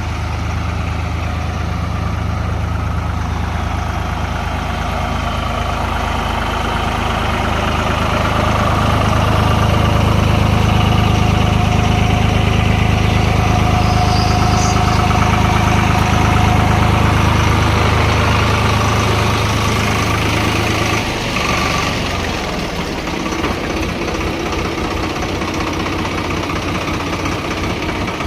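Heavy diesel engine running steadily. It grows louder under load through the middle, then drops back about three-quarters of the way through to a lower, rougher running.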